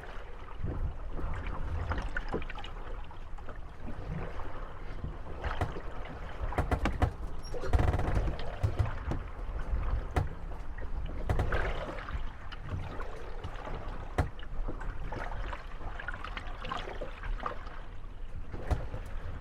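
Moored wooden gondolas rocking on small waves, water lapping at the hulls, with irregular knocks, clatters and creaks as the boats bump against each other. The knocking gets louder for a moment about eight seconds in.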